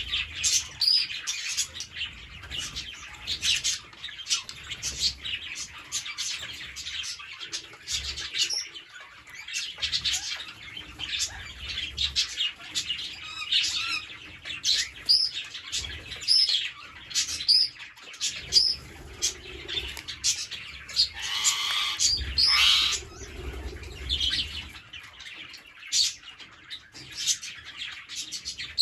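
Green parrots chattering, a dense run of short, high chirps and calls overlapping one another. One louder, harsher squawk comes about two thirds of the way through.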